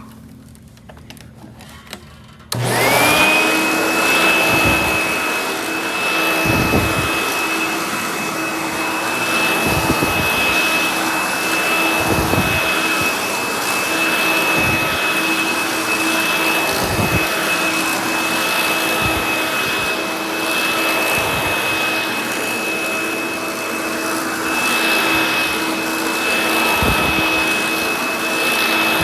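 Hoover Dial-A-Matic upright vacuum cleaner switched on about two and a half seconds in: the motor spins up within about a second and settles into a steady high whine, with occasional short low knocks as it runs.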